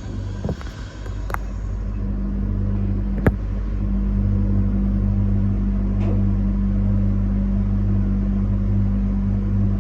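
A train running on the JR Hakodate Line, heard from the front of the train: a steady low hum that grows louder over the first few seconds and then holds, with two sharp clicks early on.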